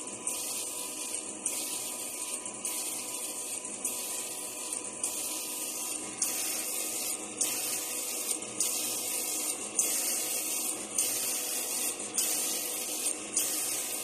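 An automatic CNC gemstone faceting machine grinding a stone on its lap, with a hissing grinding stroke repeating about once a second over a steady motor hum.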